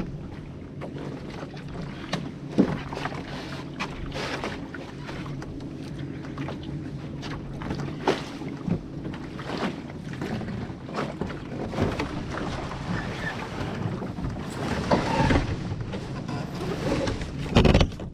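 Canoe being paddled: water noise with irregular knocks and clunks of paddles against the hull, the loudest near the end. Under it runs a steady low hum, with wind on the microphone.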